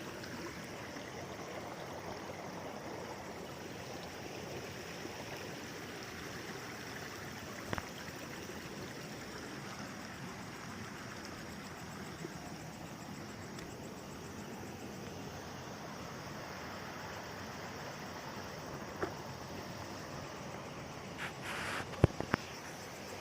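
Shallow stream water flowing steadily, with a few sharp knocks, a cluster of them near the end and one of those the loudest.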